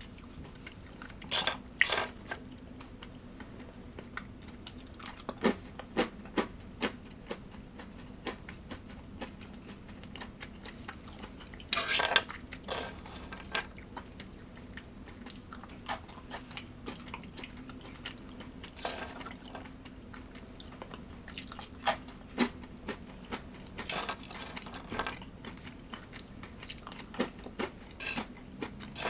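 A person eating a meal with cutlery: fork or knife clinking and scraping on a plate in scattered short bursts, with chewing between. A faint steady hum runs underneath.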